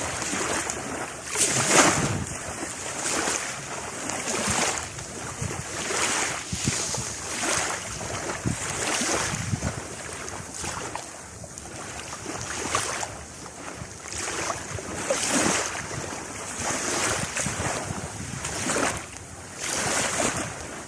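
Sea waves washing in one after another in irregular surges, with wind buffeting the microphone.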